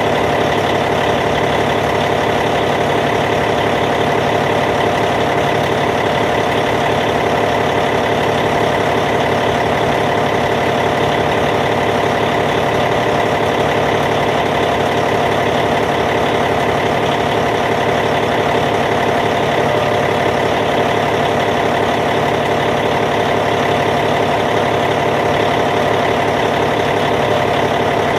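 Caterpillar C15 diesel engine of a D8T dozer idling steadily.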